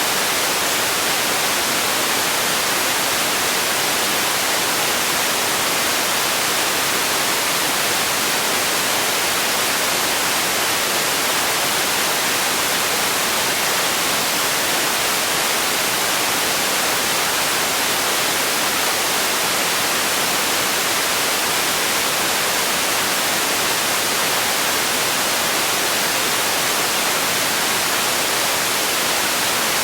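Steady electronic noise, an even, unchanging hiss with most of its energy in the high frequencies.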